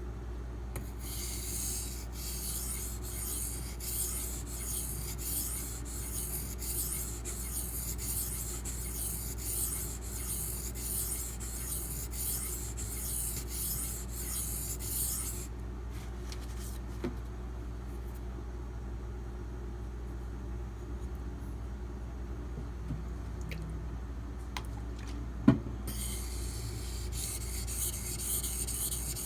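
A D2 steel knife blade stroked back and forth on a sharpening stone: a steady run of scraping strokes, about two a second. The strokes stop about halfway, a few light clicks and one sharp knock follow, and the strokes start again near the end.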